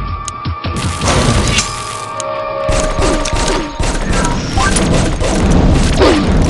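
Fireworks going off in a rapid series of bangs and crackles. They grow louder about a second in and again near three seconds in.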